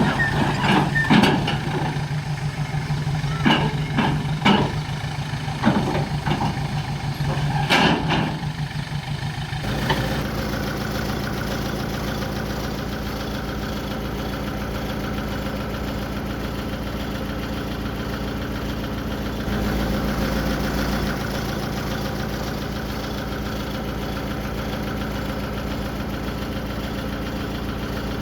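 Heavy diesel machinery engine running steadily, with a string of sharp knocks and clanks over the first ten seconds. After an abrupt change it carries on as a smooth, even engine hum.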